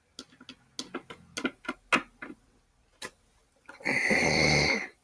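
Small plastic toy figures clicking and tapping against a hard surface about a dozen times, then a child voicing a rasping growl for about a second.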